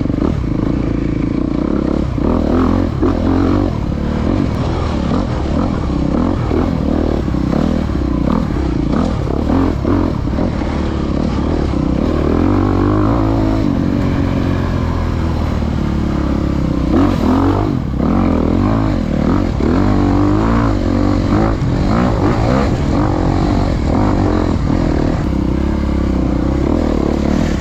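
Dirt bike engine being ridden hard on a woods trail, its revs rising and falling continuously with throttle and gear changes, with some clatter from the bike over rough ground.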